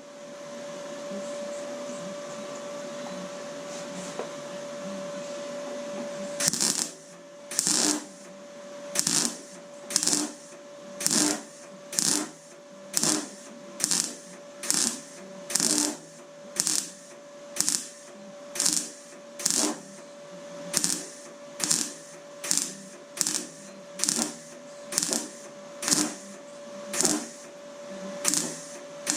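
MIG welder laying short, regular blips of weld, about one a second, on thin door-bottom steel over a steady hum. The blips start several seconds in, after a stretch of hum alone. Welding in short bursts keeps the thin, rusty metal from blowing through.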